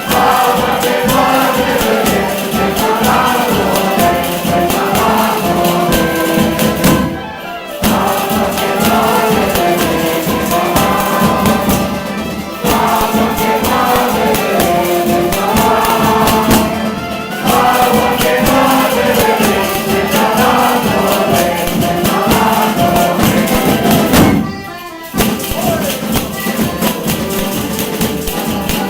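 A group of people singing together to a steady, fast tambourine rhythm. The music breaks off briefly a few times between verses.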